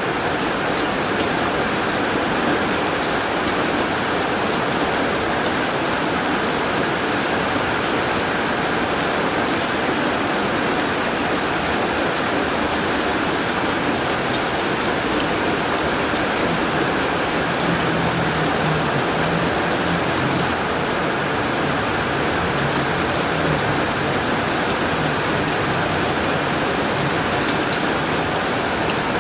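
Heavy rain drumming steadily on a tin roof, dense and unbroken, with countless small drop ticks. A faint low rumble sits under it in the second half.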